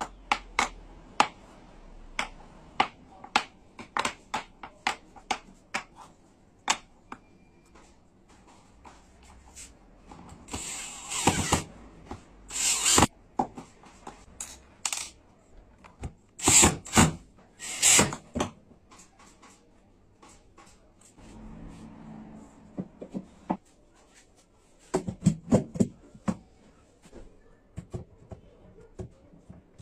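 Hand work on wood: a long run of sharp taps and clicks, with a few short scraping strokes around the middle and another cluster of taps near the end.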